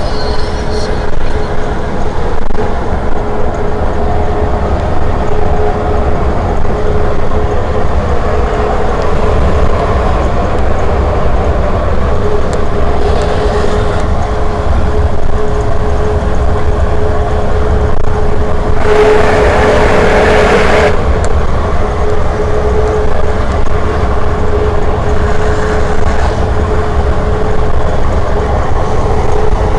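Scania R500 truck's V8 diesel engine pulling steadily under load up a climb. About nineteen seconds in, a rush of noise lasts for about two seconds.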